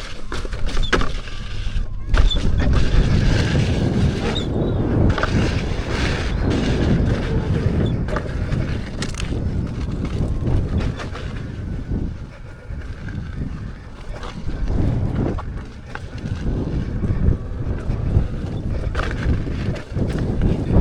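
KingSong F18 electric unicycle riding a rough dirt trail: continuous rumble of the tyre over dirt and rock with wind buffeting the microphone, rising and falling in level.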